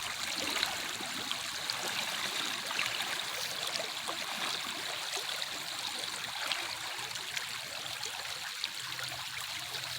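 Creek water running, a steady trickling rush with small scattered clicks through it.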